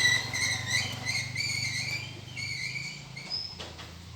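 A caged songbird calling: a run of short, bright chirps, a few a second, that grow fainter toward the end, over a low steady hum.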